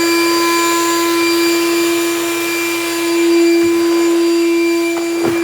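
Ridgid 6-gallon wet/dry shop vac (WD6000) running at full speed with a loud, steady whine, just after spinning up. It swells briefly about three seconds in, and a couple of short knocks come near the end.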